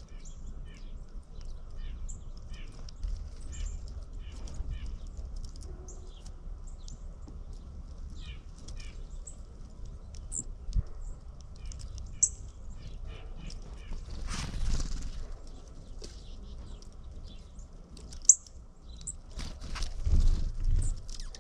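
Small wild birds chirping, with many short high calls throughout over a low steady rumble. A louder rushing flurry comes about two-thirds of the way in and another near the end.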